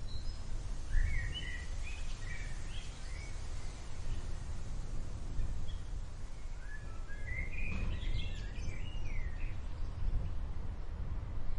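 A small songbird chirps in two short bursts of quick notes, over a steady low outdoor rumble.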